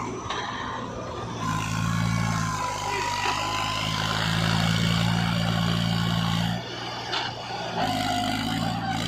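Mahindra 265 tractor's diesel engine working hard under load, straining to pull a stuck load free. The engine gets louder about a second and a half in and holds there, eases off for about a second near the end, then picks up again.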